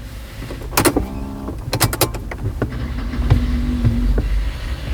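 Sharp clicks from inside a car, then a short steady electric motor hum with a low rumble lasting about a second.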